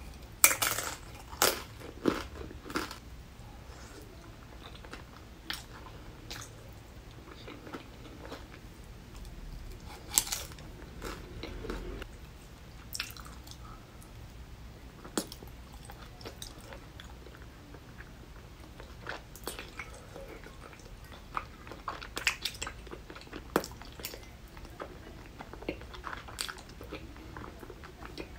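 Close-up chewing and biting of tteokbokki with crisp fried potato pieces: wet chewing broken by irregular sharp crunches, loudest in the first few seconds and again about ten seconds in and a little past twenty seconds.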